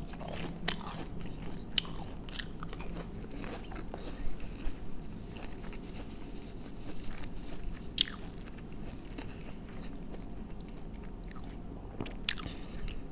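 A person chewing a crisp deep-fried breaded cheese nugget, with scattered crunches and wet mouth clicks, a few sharper ones standing out, over a low steady hum.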